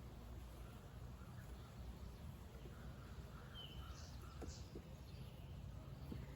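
Faint outdoor background noise with a steady low rumble, and a few short bird chirps about halfway through.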